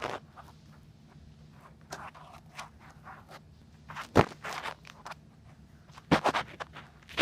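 Ear-cleaning ASMR: an ear-cleaning tool scratching and scraping close against an ear microphone, in soft irregular strokes, with a sharp tap about four seconds in and a quick cluster of louder scrapes around six seconds.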